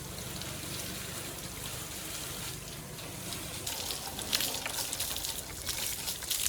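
Water trickling and splashing, with a few sharper splashes in the second half.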